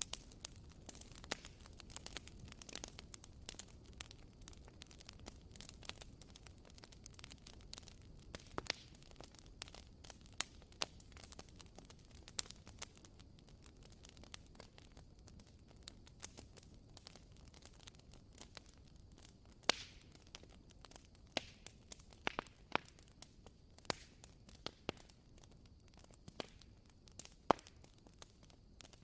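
Wooden-wick candle crackling softly: irregular small pops and ticks, thick at first and sparser later, with a few sharper pops in the second half.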